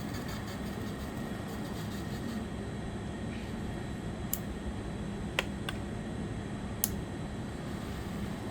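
Model diesel locomotive running along the track: a steady electric-motor hum and wheel rumble, with a few sharp clicks in the second half.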